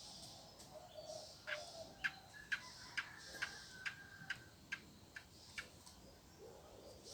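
Faint rural morning outdoor ambience with scattered bird calls. In the middle comes a run of about ten sharp ticks, roughly two a second.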